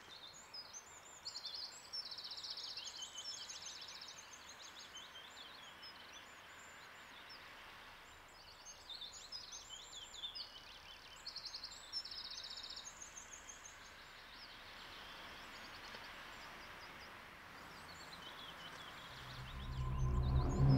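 Small songbirds chirping and trilling in two bouts over a faint, steady background hiss. Music swells in near the end and becomes the loudest sound.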